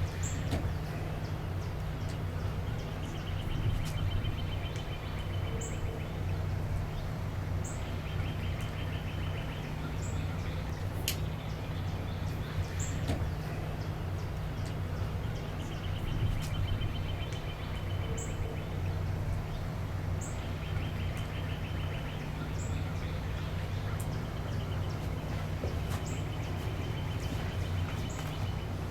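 Wetland ambience: a steady low rumble, with small birds calling over it. Short high chip notes come every second or two, and a rapid trill of about a second repeats every few seconds.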